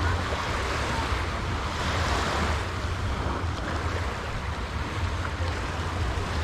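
Sea waves washing onto a sandy beach, swelling about two seconds in, with wind rumbling on the microphone.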